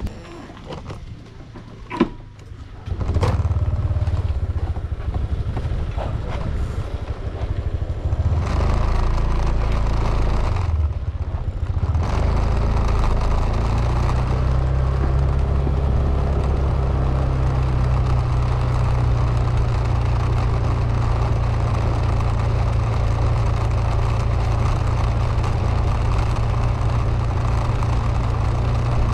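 A few clicks and knocks, then a vehicle engine starts about three seconds in and runs on steadily at a low, even pitch.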